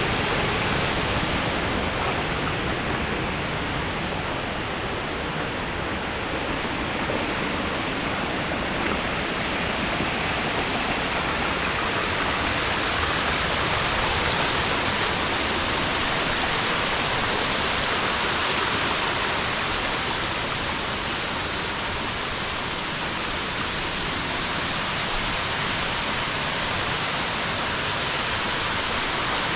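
Steady rush of water falling down a stepped waterfall cascade, its hiss growing brighter about a third of the way in.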